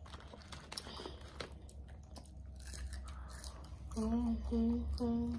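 Close-up chewing and small mouth clicks of children eating fast-food fries and chicken bites. From about four seconds in, a child's voice comes in with a few short held notes at one steady pitch.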